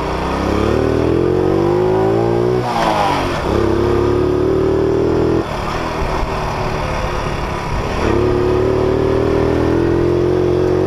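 Honda C70 Super Cub's small single-cylinder four-stroke engine pulling away under throttle, rising in pitch, dropping briefly about three seconds in, then running steady; it eases off around five and a half seconds in and picks up again to a steady cruise. The bike is geared higher with a larger 15-tooth front sprocket.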